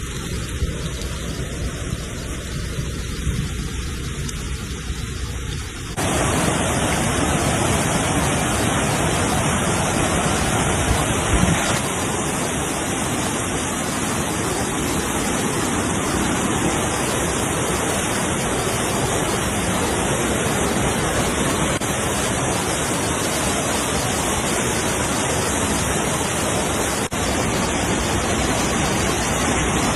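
Heavy rain pouring, a steady rushing hiss; it turns suddenly louder about six seconds in.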